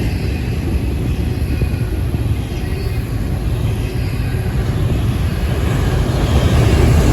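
Double-stack freight train's cars rolling past: a steady, loud rumble of steel wheels on rail.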